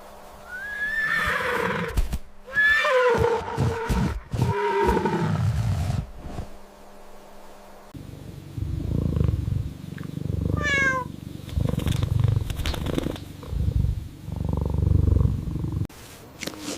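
A series of animal calls: loud, pitched calls that glide up and down during the first several seconds, then low, rough rumbling calls with one short rising call in the middle.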